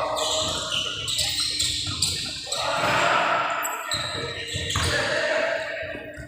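A busy mix of repeated thumps and indistinct voices.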